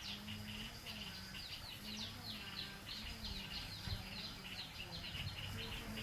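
Birds chirping in quick repeated notes, over a thin steady insect trill.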